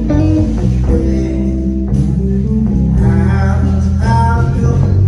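Live blues band music: a guitar playing over bass, with a few sharp strikes.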